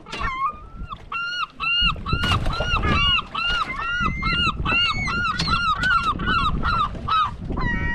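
A gull giving a long run of rapid, repeated yelping calls, about three a second, each call rising and falling in pitch. The calls start about a second in and stop shortly before the end.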